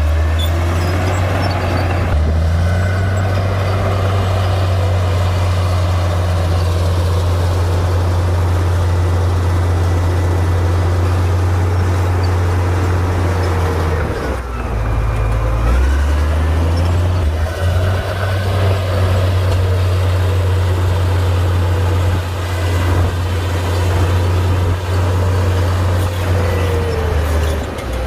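Komatsu D58P bulldozer's diesel engine running steadily under load as it pushes dirt, a low heavy drone. About halfway through the engine note drops briefly, then comes back up.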